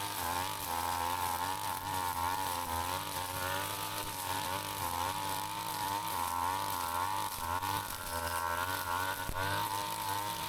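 Brush cutter engine running steadily, its pitch wavering up and down over and over as it cuts through grass and weeds.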